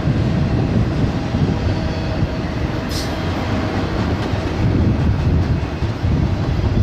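Freight train rolling past close by: a steady, loud rumble of steel wheels on rail, with a brief high squeak about three seconds in.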